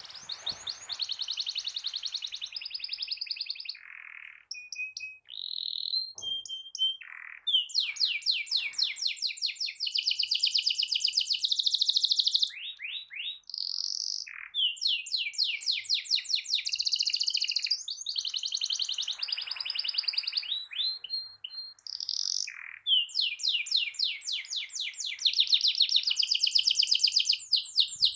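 Canary singing a long rolling song: fast trills of rapidly repeated high notes, broken by a few brief pauses.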